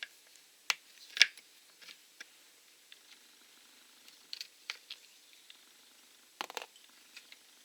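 Scattered small clicks and taps of a screwdriver and little screws being worked loose on a chainsaw carburetor, with a sharper knock about a second in and a short cluster of clicks near the end.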